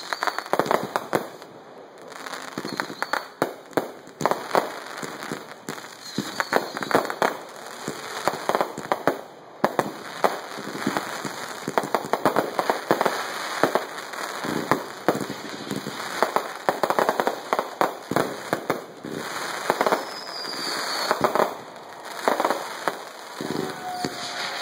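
Fireworks and firecrackers going off in rapid succession, a dense run of sharp pops, bangs and crackling with a few short whistles among them.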